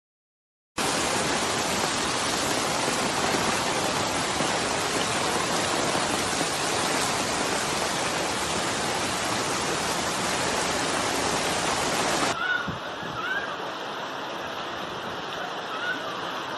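Loud, steady rushing of water, as from heavy rain and flooding, starting about a second in. Around twelve seconds in it changes abruptly to a quieter, thinner rush, with a few faint short rising chirps.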